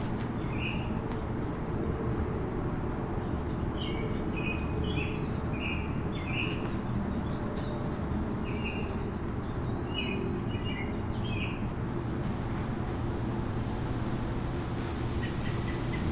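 Small birds chirping, with many short, high chirps in quick groups that thin out near the end, over a steady low outdoor rumble.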